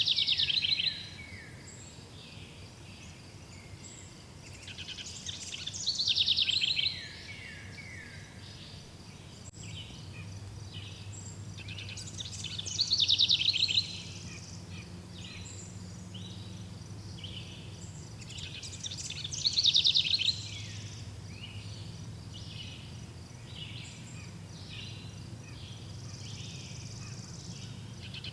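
A songbird repeats a short trilled phrase of about a second, starting high and running down in pitch, roughly every six to seven seconds, five times in all. Other birds chirp faintly throughout over a steady low hum.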